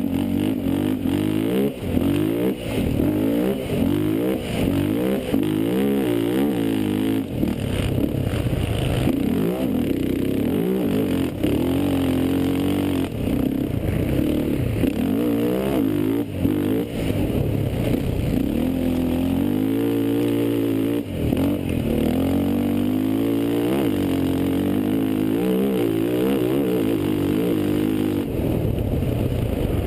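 Racing quad (ATV) engine revving up and falling back again and again as it is ridden hard.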